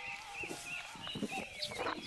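Several birds chirping and singing at once, their short whistled calls overlapping, with a brief rustle or knock near the end.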